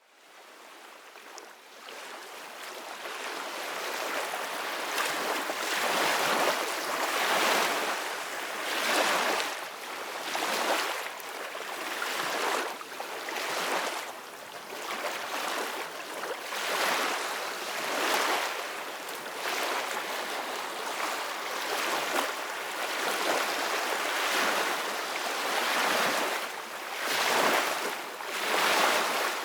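Ocean surf washing onto a beach. It fades in from silence over the first few seconds, then keeps a steady wash of water noise that swells in repeated surges every second or two.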